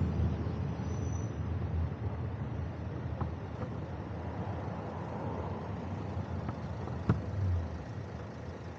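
Steady low rumble of wind and road noise during a bicycle ride, easing slowly, with one sharp click about seven seconds in.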